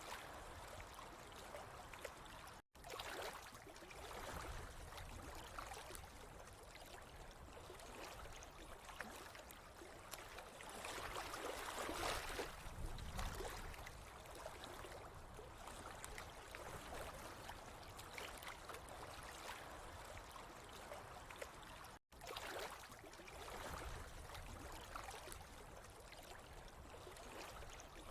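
Faint, steady trickle of running water, swelling slightly about halfway through and cutting out for an instant twice.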